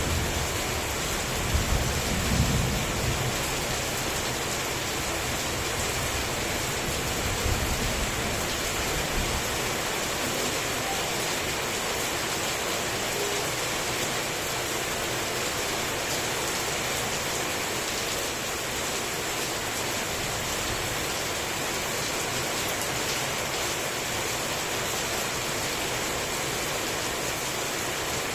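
Heavy tropical rain falling steadily, with low rumbles of thunder about two seconds in and again around eight seconds in.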